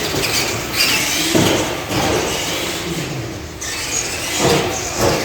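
Radio-controlled monster trucks racing on a dirt track. The electric motors rise and fall in pitch as the trucks speed up and slow, over steady tyre and track noise.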